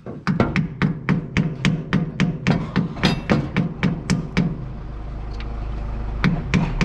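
Rapid, even metallic tapping, about five strikes a second, with a low hum beneath; the tapping stops a little past the middle and starts again near the end.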